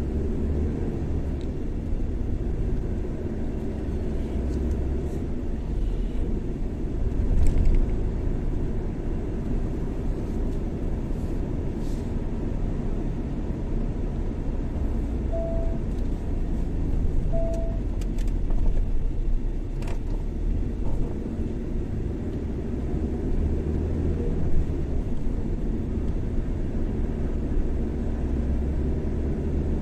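Car driving along a road, with a steady low rumble of engine and tyres. Two short, faint tones sound about two seconds apart near the middle.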